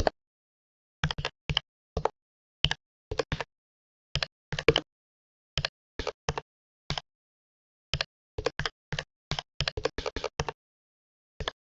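Computer keyboard typing: separate keystrokes clicking irregularly, sometimes singly and sometimes in quick runs of several keys, with pauses of up to a second between them.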